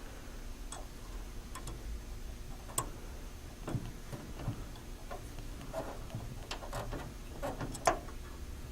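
Faint, irregular small metallic clicks and ticks of a hand tool working the set screw on an inside door handle while it is tightened onto its spindle.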